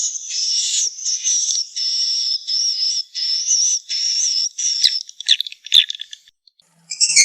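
Swiftlet calls, the kind of recorded lure sound played in swiftlet houses: a run of short, high, twittering chirps about two a second, then a few sharp clicks and a short pause before a new burst of chirps starts near the end.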